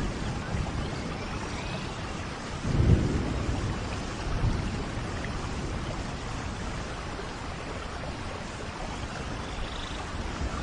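Steady rainforest rain, with a short low rumble of thunder about three seconds in and a fainter one a little later.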